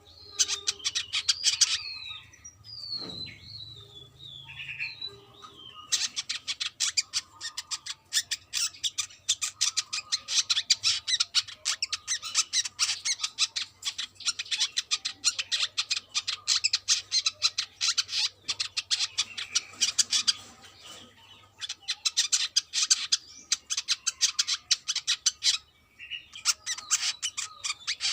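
Brown-throated sunbird singing: a few sliding, falling whistled notes at first, then long runs of fast, high twittering chatter with short breaks.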